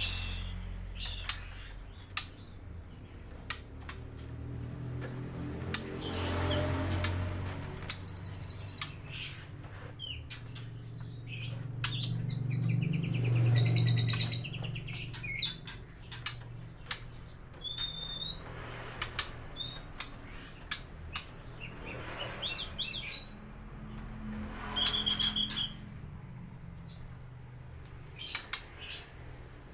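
White-rumped shama (murai batu) singing a varied song of sharp clicks, fast high trills and whistles, full of imitations of other birds' calls. A low rumble swells under it twice.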